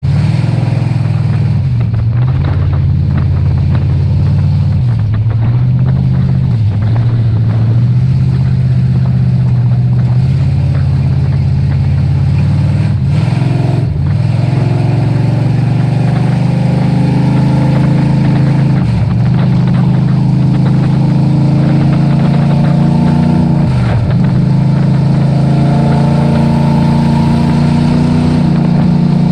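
Dirt-track race truck engine running hard and steady at high revs. Its pitch dips briefly about every few seconds and then climbs back.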